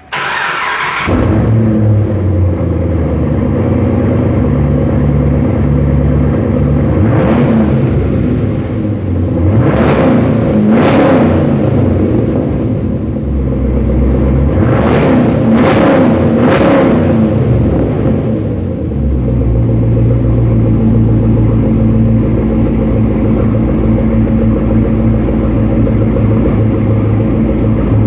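Chevrolet Camaro SS V8 starting with a loud flare and settling into a rumbling idle. It is then blipped about six times, with three quick revs close together, before running at a steady idle again.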